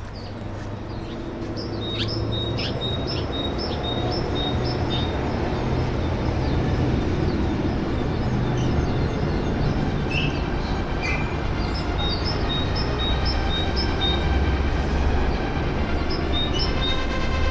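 A small bird chirping over and over, about two short chirps a second, in several runs, over a constant low outdoor rumble that grows louder.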